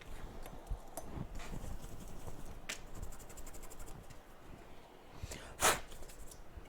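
Small tools and parts being handled on a workbench: scattered clicks and rustles, a quick run of light rattling ticks about three seconds in, and one sharp clack near the end.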